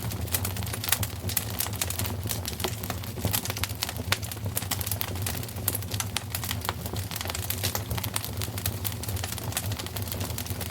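Wood fire crackling in a fireplace, with dense, irregular small pops and snaps over a steady low rumble.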